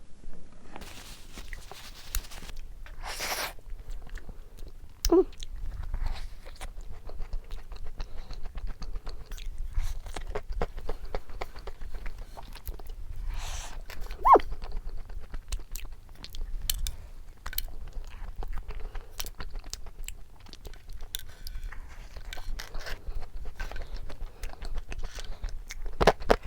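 A person chewing and biting into a cream-filled cookie-crusted choux puff, with irregular soft crunches and wet mouth clicks throughout.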